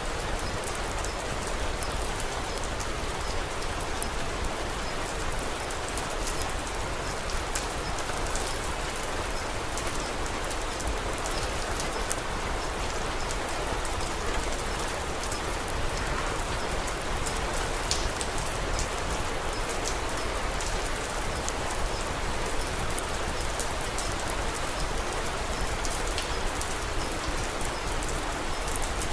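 Steady rain falling, an even hiss with many small sharp ticks of drops scattered through it.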